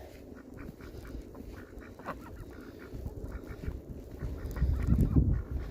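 Geese honking and ducks quacking as a small flock is herded along, with short calls scattered throughout. A louder low rumbling noise about five seconds in.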